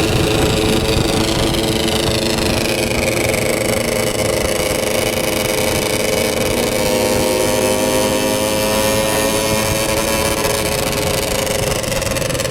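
Motorcycle engine running steadily under way. Its pitch drops a few seconds in and then climbs gently towards the end as the speed changes.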